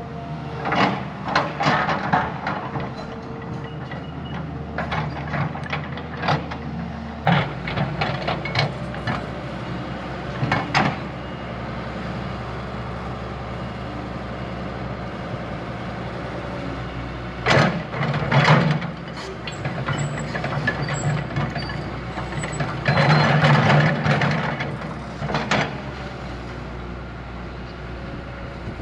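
Diesel engine of a heavy earthmoving machine running steadily, with repeated bursts of metal clanking and scraping from the machine working.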